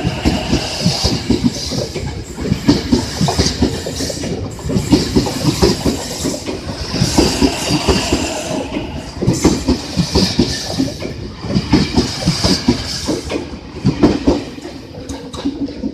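A passenger train passing close by, its wheels clattering rapidly over the rail joints; the clatter eases off near the end as the last cars go by.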